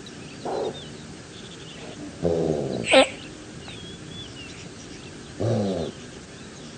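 Gazelle bleating: three calls, a short one, a longer one that ends in a sharp high cry, then another, with small birds chirping faintly behind.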